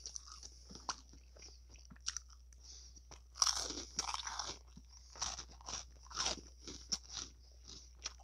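Close-miked chewing of a salad with croutons: irregular crunching with little clicks, getting louder and denser about three and a half seconds in and again around five to six seconds.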